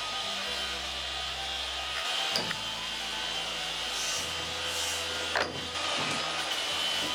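Battery-powered wire wheel running against old painted timber posts, scraping off layers of paint with a steady whirring grind and a couple of sharp knocks.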